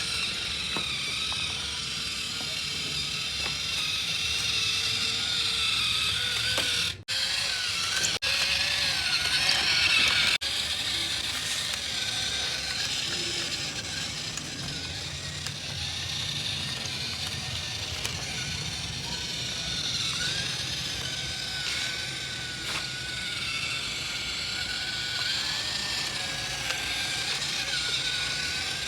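Small electric motor and plastic gears of a remote-control toy vehicle whirring steadily, with a wavering high whine.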